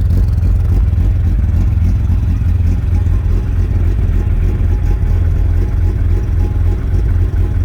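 Mini's engine idling steadily with a low, even rumble, running after a cold start.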